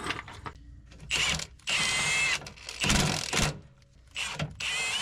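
A cordless power tool, such as a drill or electric ratchet, running in several short bursts with a whine. It is typical of running up bolts, probably on the loosened crossmember, before they are torqued to spec.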